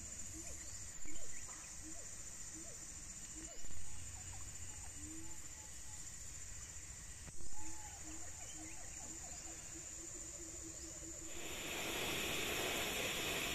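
Tropical forest ambience: insects keep up a steady high-pitched buzz while an animal repeats a short, low call several times a second, with a few brief louder bumps. About eleven seconds in, a steady rushing hiss rises and continues.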